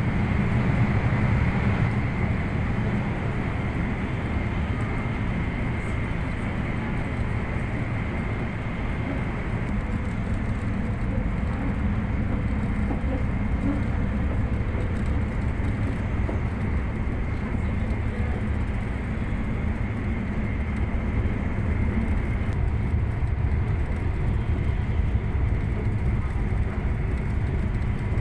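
Interior running noise of an E2-series Shinkansen car heard from the vestibule: a steady low rumble with an even rushing sound and a faint, constant high whine, the train travelling at speed.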